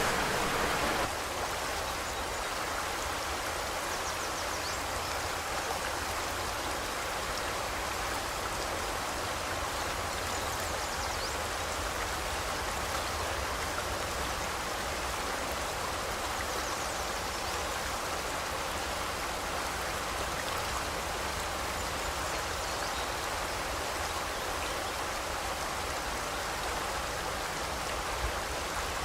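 Forest river water rushing and splashing steadily, an even hiss of flowing water, a little louder for about the first second.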